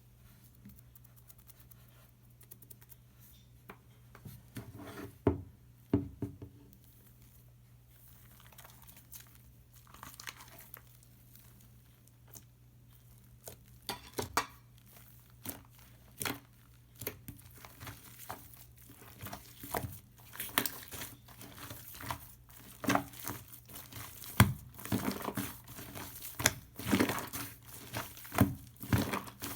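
Shaving-foam slime being squished and stretched by hand, giving irregular crackles and pops that are sparse at first and come thicker in the second half.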